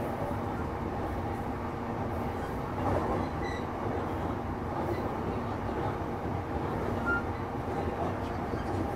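Electric commuter train running along the line, heard from inside the car: a steady rumble of wheels on rail with a faint steady motor hum.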